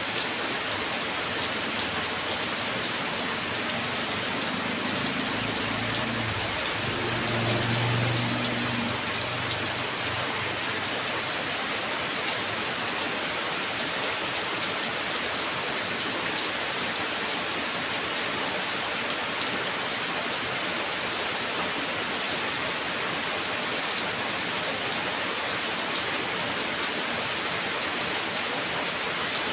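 Heavy rain falling steadily. About five seconds in, a low rumble of distant thunder swells, peaks around eight seconds and dies away a couple of seconds later.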